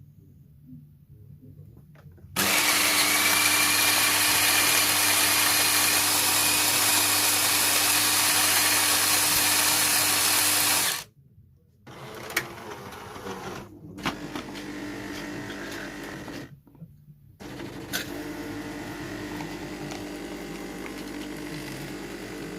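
Jura coffee machine at work after its flooded grinder was cleaned: the grinder runs loud and steady for about eight seconds and stops suddenly, then the machine carries on with a quieter motor and pump running, with a few clicks and one short break.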